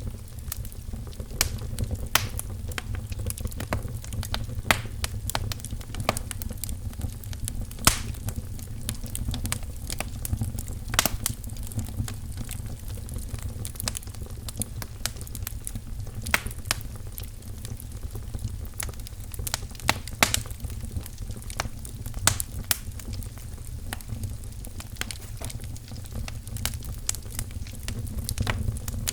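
Wood fire crackling in a fireplace: irregular sharp pops and snaps, a few of them louder, over a steady low rumble of burning.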